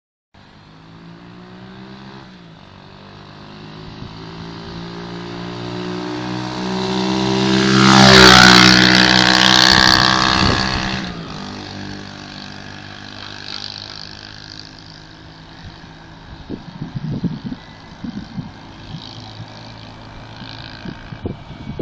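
Pit bike engine running as the bike rides closer, loudest about eight seconds in with its pitch dropping as it passes, then fading away. Irregular low thumps come in during the last few seconds.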